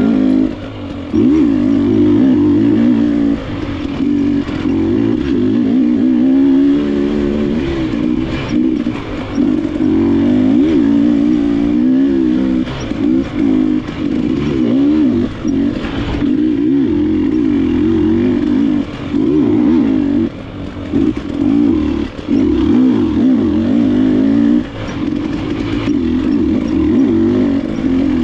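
KTM enduro dirt bike engine heard from the rider's position, revs rising and falling continuously as the throttle is worked on and off, with a couple of sharp knocks from the bike along the way.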